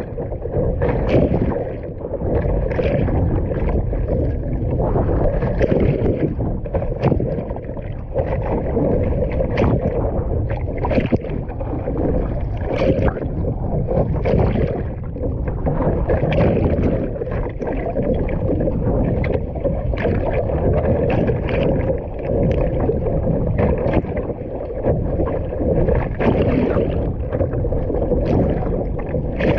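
Choppy sea water splashing and slapping irregularly around a small paddled boat, with wind buffeting the microphone.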